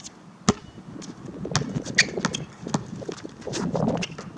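Basketball bouncing on hard court pavement: a handful of sharp bounces at an uneven pace as it is dribbled and loosely played.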